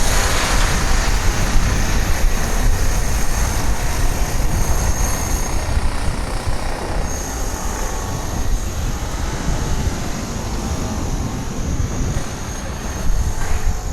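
Wind rushing over the microphone of a moving bicycle, with a thin, steady high whine above it that breaks off for about a second midway.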